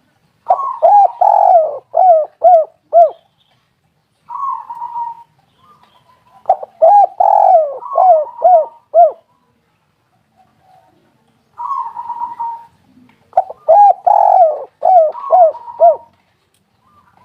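Spotted dove cooing: three song phrases, each a quick run of about five or six coos, with a shorter single coo between the phrases.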